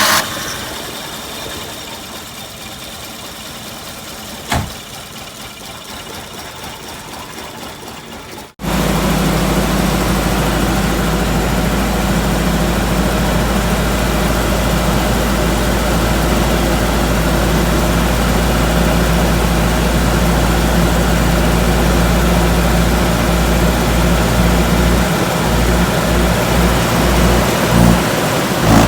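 Car engine running steadily at idle just after starting, with a sharp click about four and a half seconds in. After an abrupt change about eight seconds in it runs louder and steady, with a strong low drone.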